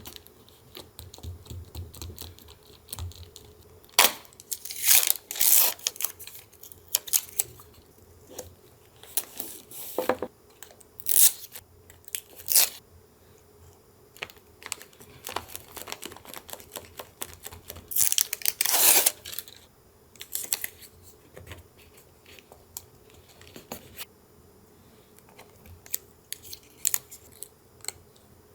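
Paper being handled for a collage: irregular crinkles, taps and short tears of paper, with one longer, louder rustling tear about two-thirds of the way through.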